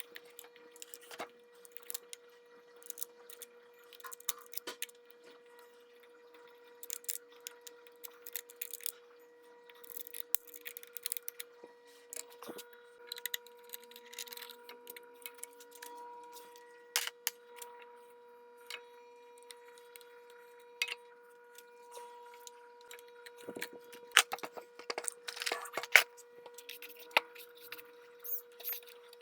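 Small metal parts and tools clicking and clinking in irregular bursts while a Singer Expressão 10 domestic sewing machine is taken apart and cleaned, over a steady faint hum.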